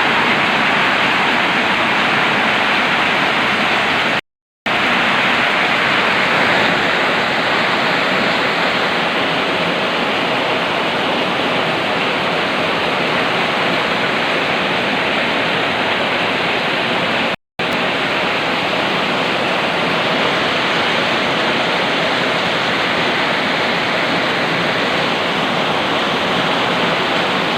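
Heavy rain pouring down steadily, with two brief cuts to silence, about four seconds in and again about seventeen seconds in.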